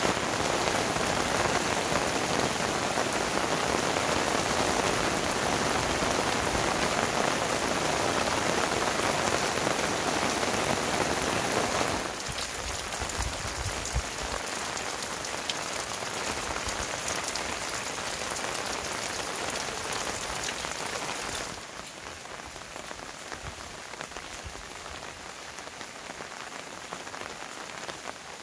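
Heavy rain falling steadily, as an even hiss of rain on surfaces. The sound drops abruptly in level twice, about twelve seconds in and again about twenty-one seconds in, leaving quieter rain with a few separate drop taps standing out.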